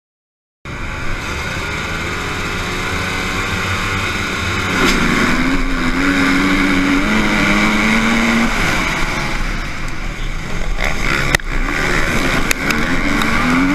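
Motocross motorcycle engines running on a race track, starting abruptly just after the beginning. One engine's pitch steps up and down as it shifts gears in the middle, over a steady din of other bikes, with a sharp click about eleven seconds in.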